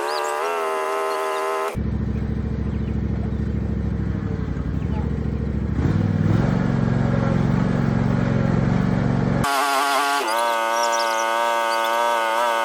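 Small gasoline engines running hard while a stuck mower is pulled from mud. A high-pitched engine sound cuts abruptly to a lower one that revs up about halfway through, then cuts back to the high-pitched engine.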